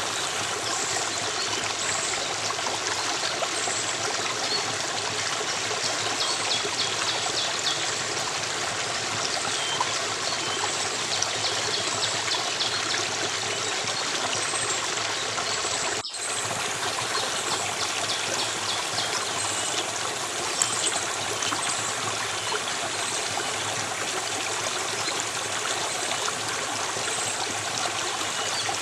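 Steady rush of running stream water, with faint short high chirps here and there and a brief dip about 16 seconds in.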